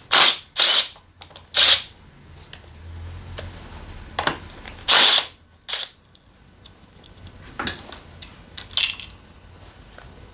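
Hand tools and metal engine parts being handled while a scooter engine is taken apart: several short, loud bursts of metallic clatter, then scattered sharp clicks.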